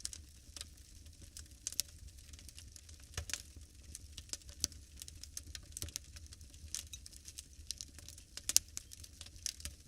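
Wood fire crackling in a fireplace: irregular sharp pops and snaps over a low steady rumble, with one louder pop about eight and a half seconds in.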